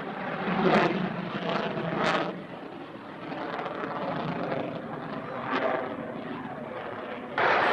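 Aircraft engine noise, steady, then suddenly much louder near the end.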